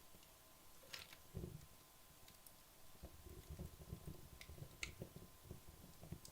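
Wood logs burning down in a fireplace, faint, with a few sharp crackles and pops spaced seconds apart and a soft, irregular low fluttering of flames in the second half.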